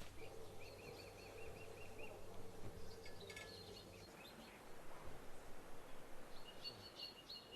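Wild birds chirping: a quick run of about eight high repeated notes about a second in, more calls around three seconds and again near the end. A faint low hum underneath stops about four seconds in.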